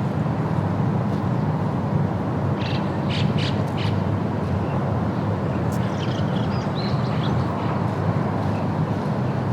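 A steady low rumble, with birds calling in a few short notes about three seconds in and brief chirps a few seconds later.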